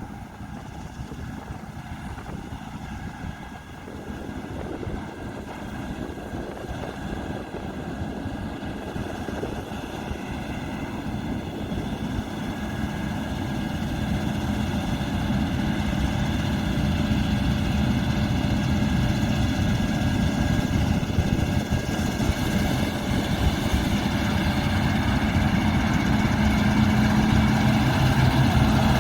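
Diesel engine of a heavy harvest machine running steadily, with a steady whine of several tones over it, growing gradually louder as the machine draws closer.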